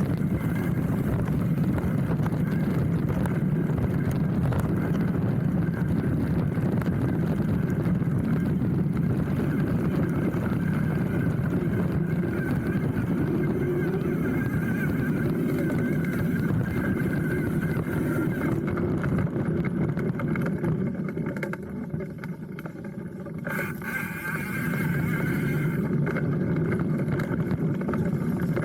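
Hardtail mountain bike riding down a dirt trail, heard from a handlebar-mounted camera: a steady rumble of tyres over the ground with rattling from the bike. It goes quieter for a few seconds about three-quarters of the way through, then picks up again.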